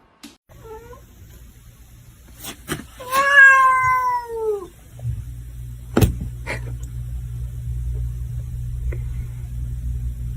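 A cat meowing. There is a short call about half a second in, then one long, loud meow that falls in pitch around three seconds in, with a few sharp knocks just before it. A steady low hum comes in at about five seconds, with a single knock soon after.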